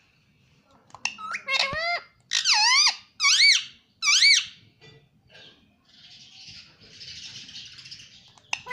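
Ringneck parrot giving a run of loud, squeaky calls that swoop up and down in pitch, about four of them in the first half. A soft hissing noise follows, then the calls start again at the end.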